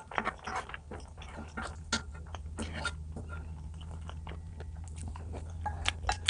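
A person eating close to the microphone: irregular bites and chewing with small wet clicks and crunches, over a steady low hum.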